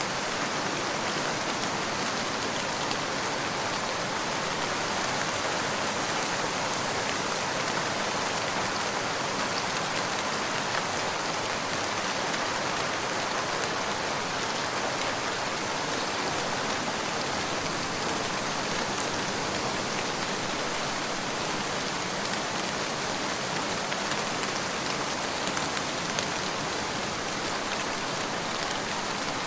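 Steady rainfall, an even hiss with scattered drops pattering on a surface.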